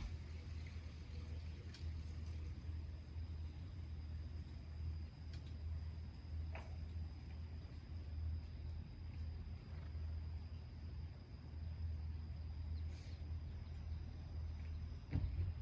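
Insects chirring in a very high, evenly pulsing trill over a steady low rumble, with a few faint pops from a small campfire.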